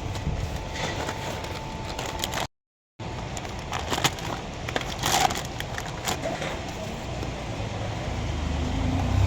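Scattered clicks and knocks of hand work over a steady background noise, broken by a half-second dropout to silence early on. A low motor hum builds near the end.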